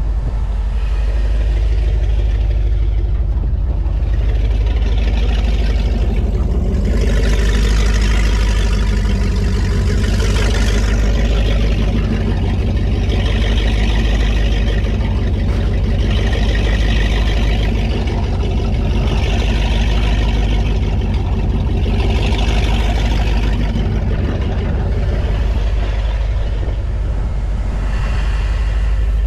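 The 2002 Donzi Classic 22's inboard engine runs steadily with a deep rumble, warming up as its water temperature climbs. A hissing sound rises and falls about every three seconds over the rumble.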